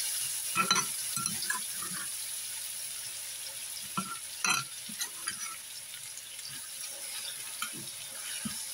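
Ground chili spice paste sizzling in hot oil in a stainless steel wok, a steady hiss, with the spatula scraping and knocking against the pan as the paste is stirred, most sharply about a second in and again about four and a half seconds in.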